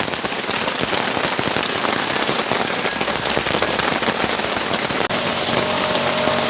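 Heavy rain falling, drops pattering on an umbrella and the ground. About five seconds in the sound briefly drops out, and a steady high whine and a low hum join the rain.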